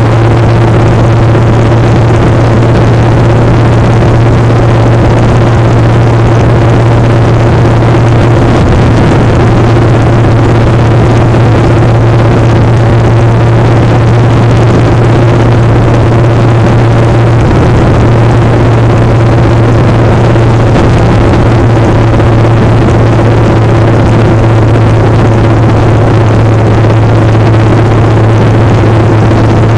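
Motorcycle engine running at a steady speed, a loud constant drone that shifts slightly in pitch a couple of times.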